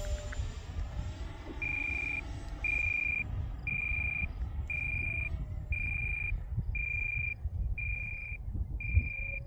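An electronic alarm beeping, a single high tone about half a second long repeating about once a second, starting about a second and a half in; typical of an RC transmitter's telemetry or battery warning. Under it, steady wind rumble on the microphone.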